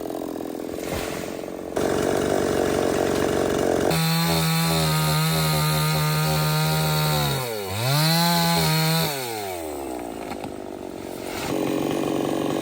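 Stihl 070 two-stroke chainsaw cutting into a teak trunk at full throttle. Its engine pitch dips and recovers about eight seconds in, then falls off around nine to ten seconds before it revs up again near the end.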